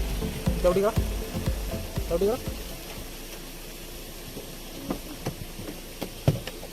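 Steady hiss of a car travelling along a road, with a few light knocks near the end and brief voices in the first couple of seconds.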